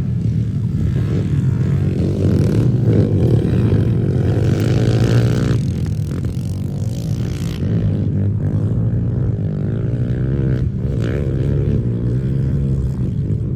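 Pit bike engine running and revving up and down as the bike rides around the track, its pitch rising and falling.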